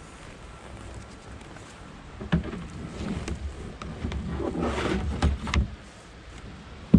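Kayak paddling: water sloshing from paddle strokes with a few sharp knocks, over a low wind rumble on the microphone.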